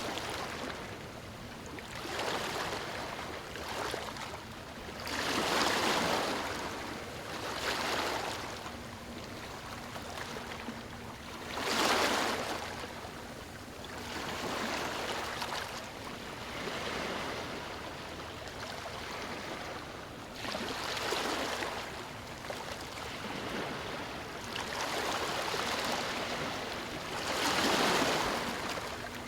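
Waves breaking on a stony shore: repeated swells of surf every few seconds, each rising to a rushing wash and draining away, over a steady background of moving water.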